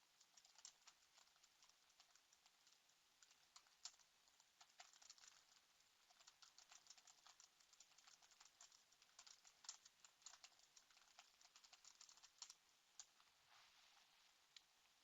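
Faint typing on a computer keyboard: irregular runs of quick keystroke clicks, thickest in the middle, stopping shortly before the end.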